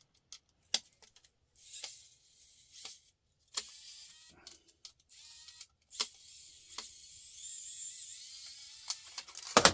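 Small cordless electric screwdriver whirring in short spells and then a longer run, backing out a laptop screw, with sharp clicks of the bit and of small parts being handled and a loud knock near the end.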